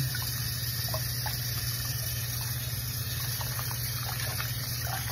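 Hot water running steadily from a faucet into a sink as it fills, with light splashing from hands stirring in detergent.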